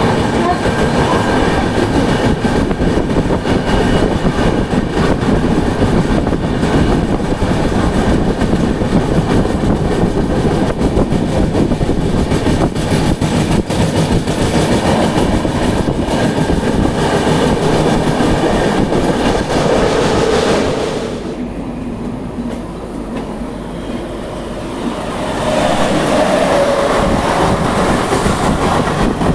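Duronto Express train running at speed: a steady rumble with wheels clattering over the rail joints. About 21 seconds in the noise drops and turns duller, then comes back loud some four seconds later.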